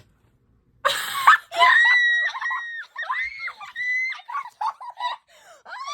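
Girl screaming with excitement at finding the rare figure in a blind bag. After a brief silence, a loud shriek about a second in is followed by long, high-pitched held squeals, then shorter squeaky cries.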